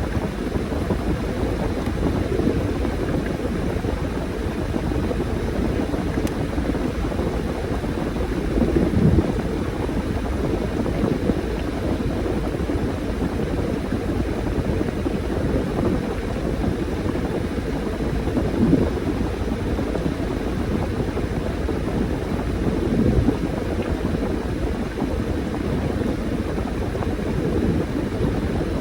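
Washing machine mid-cycle, laundry and water churning and sloshing as it turns, a steady low rumble with a few brief louder sloshes.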